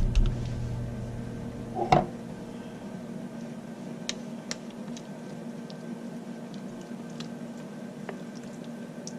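Spoon working a thick cheese and cream-of-chicken sauce over chicken in a baking dish: soft squishing with small clicks, and one louder knock about two seconds in, over a steady low hum.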